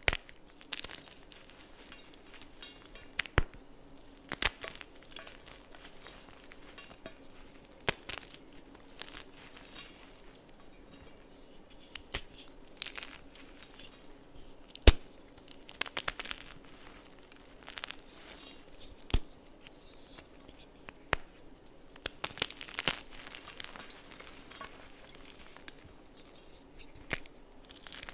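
Gym chalk being crushed and crumbled by hand: irregular crisp snaps and crunches, some sharp and loud, over a soft steady crackle of crumbling chalk.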